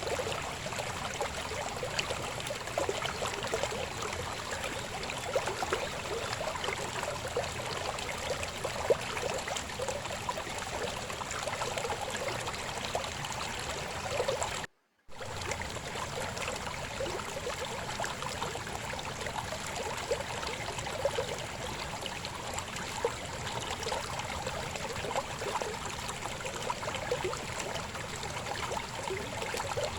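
Shallow river babbling and gurgling steadily over stones. The sound cuts out completely for a split second about halfway through, then resumes.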